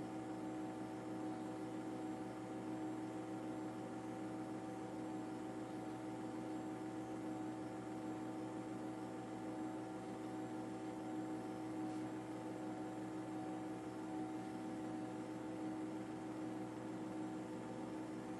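A steady hum made of several fixed tones over a faint hiss, unchanging throughout.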